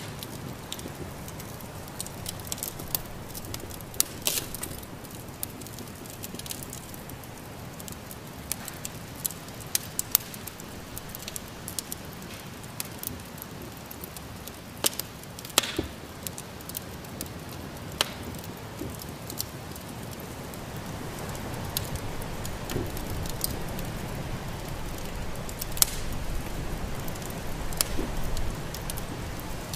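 Wood fire crackling in a fireplace: irregular sharp pops and snaps over a steady low background that grows a little louder in the second half.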